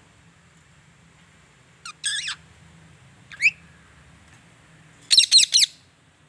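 Pet parrot calling: a short squawk about two seconds in, a brief single call a second later, then a louder burst of harsh screams near the end.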